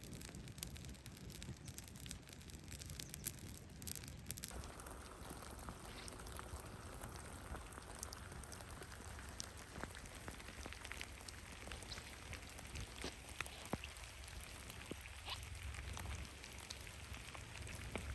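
Rain falling, heard as a steady hiss with many irregular sharp drop taps.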